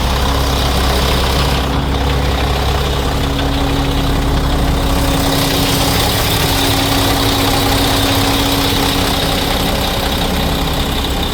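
2007 Mack swab rig truck's diesel engine idling steadily, its low tone shifting about five seconds in.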